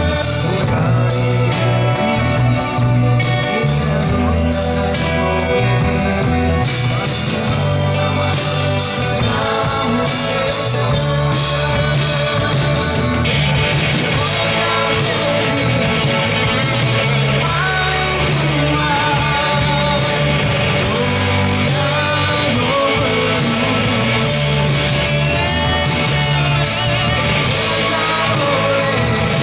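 Live band playing a rock-style song with a steady beat, and a voice singing over it.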